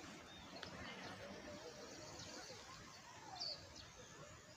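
Birds chirping faintly here and there over soft outdoor background noise.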